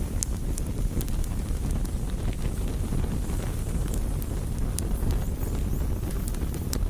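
Wood bonfire burning, with a steady low rumble and scattered sharp crackles and pops at irregular intervals.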